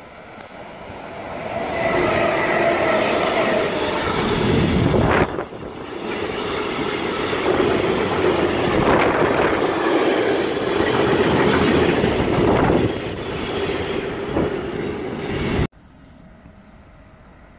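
A freight train passes at close range: an SBB Cargo electric locomotive goes by, then a long string of gas tank wagons rolls past with the wheels clattering over the rail joints. The sound cuts off suddenly near the end, and a distant train is left, much fainter.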